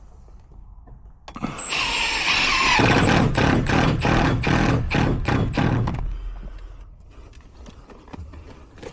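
A motor or engine starts up with a brief high squeal, then runs with a regular pulse about three times a second for a few seconds before dying away.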